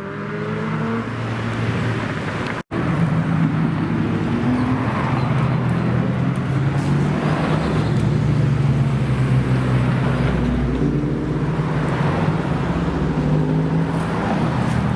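Modified car's engine running at low, fairly steady revs, growing louder over the first couple of seconds; the sound cuts out for an instant a little under three seconds in.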